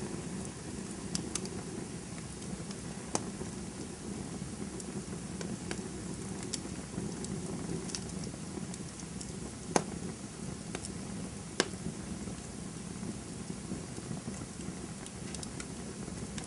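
Wood campfire burning: a steady low rush of flames with scattered sharp crackles and pops, two of them louder a little past halfway through.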